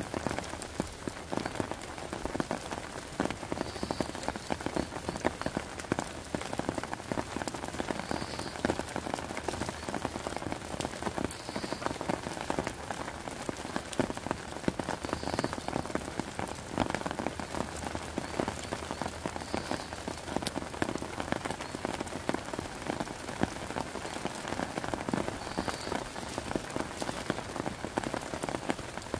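Heavy rain falling steadily on a wet wooden deck and tent tarps: a dense, even hiss of countless drop strikes.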